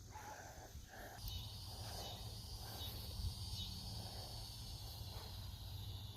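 Cicadas singing: a faint, steady high-pitched buzz over a low background rumble.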